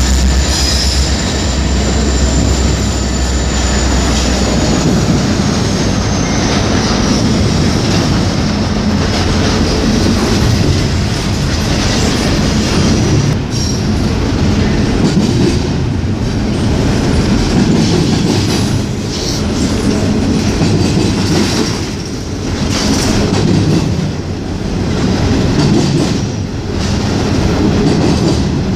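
Norfolk Southern freight train passing close by. For the first few seconds a diesel locomotive's deep engine drone dominates, with a thin high wheel squeal that slides slightly down in pitch. After that come the rumble and clickety-clack of the railcars rolling over the rail joints.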